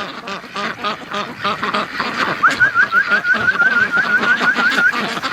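A flock of domestic ducks, white Pekins, quacking and chattering together, many calls overlapping. From about halfway in, a fast run of about a dozen high, repeated calls, around five a second, sounds above the flock for a couple of seconds.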